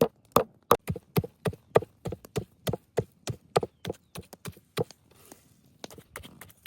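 Knife chopping rapidly on a cutting board, about three strokes a second, stopping about five seconds in.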